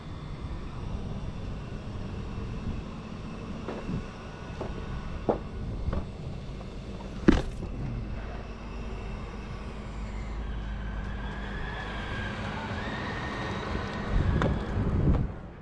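Crane truck engine running steadily, with a few short knocks and one sharp, louder knock about seven seconds in.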